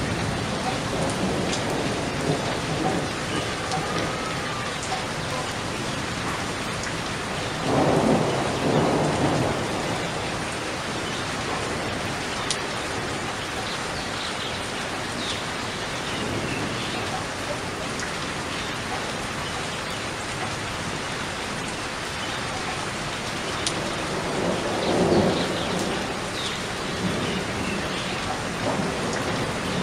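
Steady rain falling, a constant hiss, with two rolls of thunder swelling up about eight seconds in and again around twenty-five seconds.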